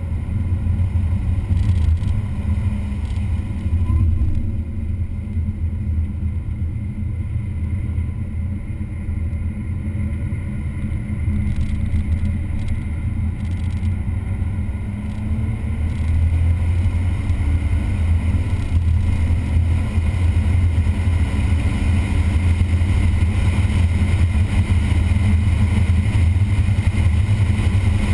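A vehicle engine running continuously at speed on a race track, a steady low drone that eases a little in the first half and builds again from about halfway.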